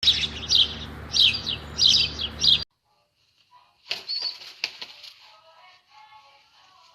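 Pigeons flapping their wings in about four loud bursts that stop abruptly. After a pause come a few sharp clicks and faint cooing.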